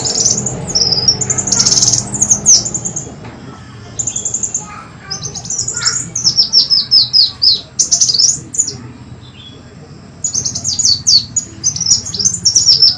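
Kolibri wulung sunbird song as played on a lure recording: runs of rapid, sharp, high chirping notes in quick series, with two brief lulls, used to call in wild sunbirds.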